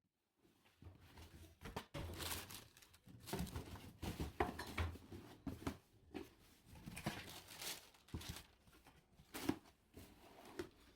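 Packaging being handled at close range: irregular crinkling and crackling with sharp tearing clicks, in uneven bursts.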